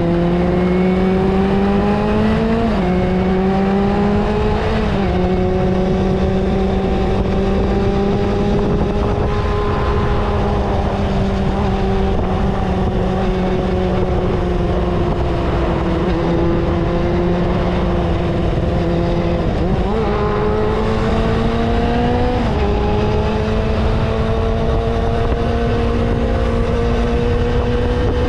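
Vintage Kawasaki motorcycle engine running under way, with wind rushing past. The engine note holds fairly steady, its pitch stepping abruptly a few times as gears change.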